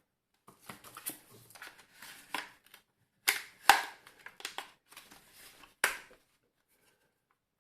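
Plastic housing of a Tefal steam iron being pried open by hand and tool: scraping and creaking, with several sharp cracks, the loudest about three and a half seconds in and another near six seconds.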